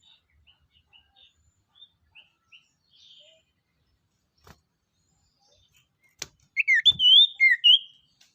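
Songbird calling: a few faint short chirps, then near the end a loud, quick run of clear whistled notes sliding up and down.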